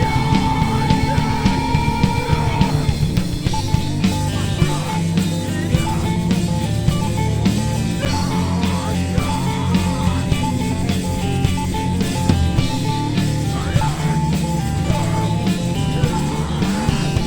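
A rock band playing live: electric guitar, bass guitar and drum kit. A held guitar note stops about three seconds in, and a repeating guitar figure follows over a steady beat.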